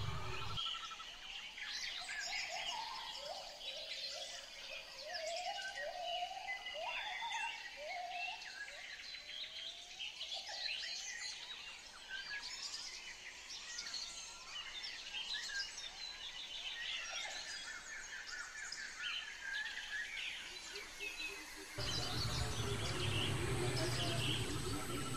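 Birds chirping and calling over and over, many short high chirps with repeated lower warbling calls. Near the end, a low steady hum comes in underneath.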